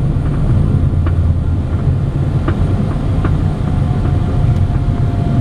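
Steady low rumble in the cockpit of a Cessna Citation Sovereign business jet during its landing roll-out on the runway. A faint steady whine joins a little past halfway.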